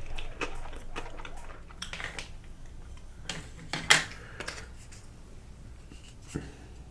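Close-up eating sounds of sushi being chewed: soft chewing and wet mouth clicks from a salmon roll topped with masago, with one sharp click about four seconds in.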